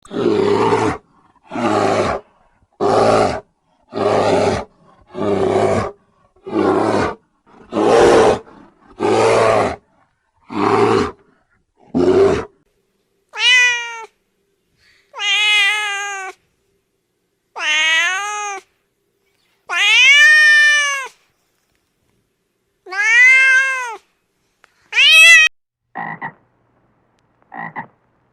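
A series of animal calls: about a dozen rough, noisy calls roughly once a second, then several long cat meows that rise and fall in pitch, then a few short, higher croaking calls near the end.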